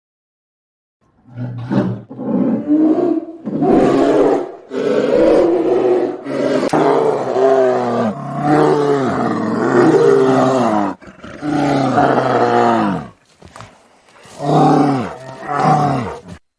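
Bear growls: a series of long, rough, pitched calls with short breaks between them, starting about a second in.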